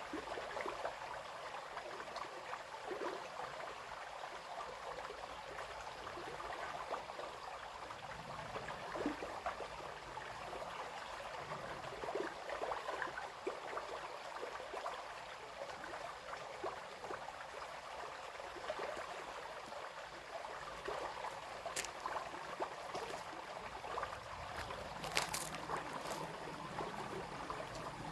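Small brook babbling and trickling steadily over stones. A few brief sharp clicks sound over the water, once about two-thirds of the way in and a cluster near the end.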